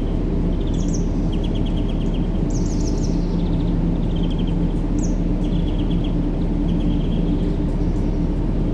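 Steady, low rumbling background noise with a faint constant hum, used as a sleep sound for babies, with small birds chirping over it in short repeated trills every second or so.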